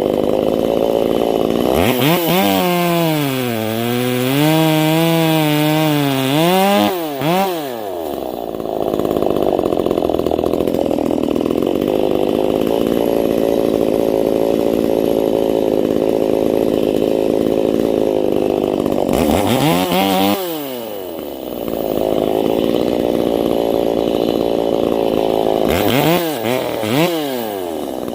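Ported, muffler-modded Stihl 025/MS250 two-stroke chainsaw cutting frozen white oak: long stretches of steady full-throttle running under load, with the revs dropping off sharply a few times between cuts and wavering up and down for a few seconds early on.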